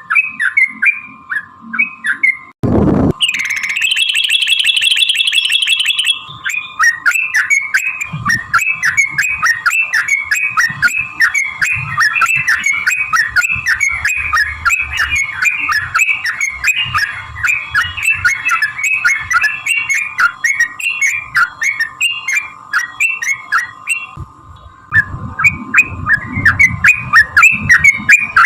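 Yellow-vented bulbul (trucukan) singing a long, rapid run of chattering notes. About three seconds in there is a sudden thump, then a buzzy trill for a few seconds before the fast notes resume, with a brief pause near the end.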